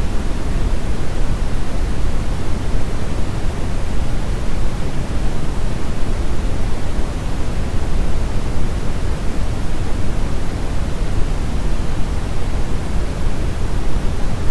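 Brown noise: a steady, even rumbling hiss, strongest in the bass and falling away toward the treble, with no changes or events.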